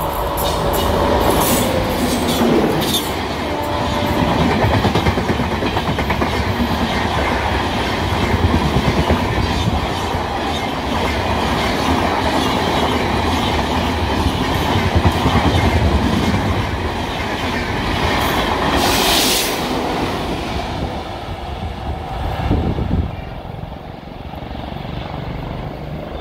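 Passenger train hauled by a WAP-7 electric locomotive passing close by: loud, steady noise of the locomotive and coach wheels running on the rails, easing off near the end.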